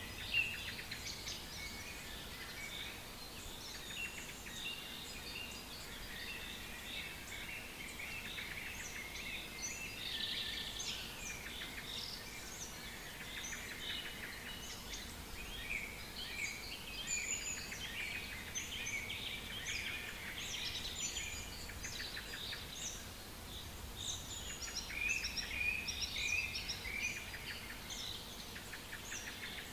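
Several songbirds singing and calling at once in a forest chorus: dense, overlapping chirps, trills and short whistles, over faint background noise.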